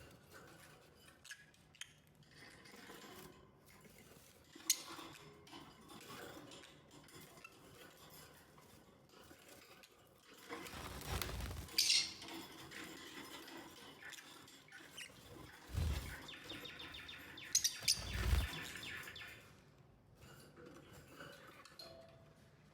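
Lovebirds chirping and chattering, with scattered small clicks and taps. Several low thumps come in the second half.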